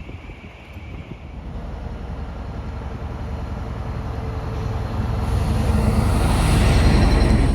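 A heavy tractor-trailer truck driving past: its engine grows steadily louder as it approaches, is loudest near the end, then falls away sharply as it passes.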